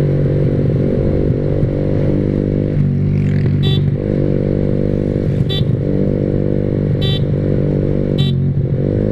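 Yamaha R15 V3's single-cylinder engine through an aftermarket SC Project exhaust, running steadily under way with small shifts in pitch. Four short high-pitched beeps cut in over it.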